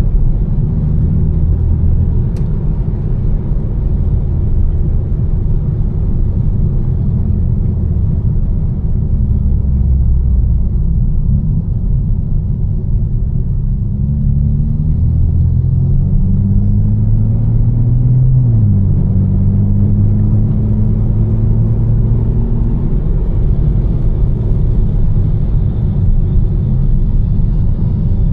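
A tuned BMW M4's twin-turbo straight-six, fitted with catless downpipes and a Fi exhaust, is driving along. About halfway through the revs climb under acceleration, drop at an upshift, then hold steady. Under it runs a continuous hiss of tyres on the wet road.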